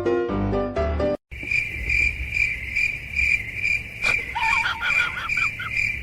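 Piano-like music cuts off about a second in. A cricket then chirps steadily, about two chirps a second, and a quick run of short squeaky calls comes in over it about four seconds in.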